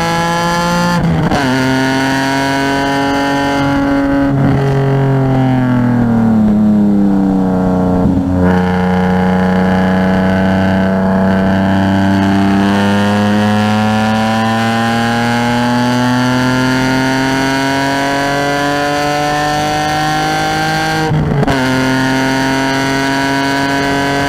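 A car's engine under load through a lapping run. There is a sudden drop in pitch about a second in, and the pitch falls for a few seconds from about four seconds in as the car slows. The engine then pulls with a slowly rising pitch for about twelve seconds, with another sudden drop, an upshift, near the end.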